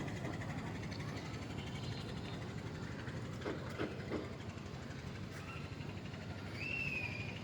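An engine running steadily with a fast, even chugging, with a few short knocks midway and a brief whistled chirp near the end.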